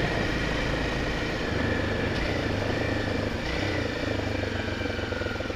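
Honda Tornado 250's single-cylinder four-stroke engine running steadily as the motorcycle rides through mud, the pitch shifting slightly a few times.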